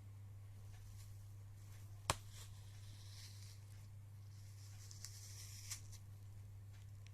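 Faint handling noises over a steady low hum: one sharp click about two seconds in, then a soft crackling hiss and two lighter clicks later on.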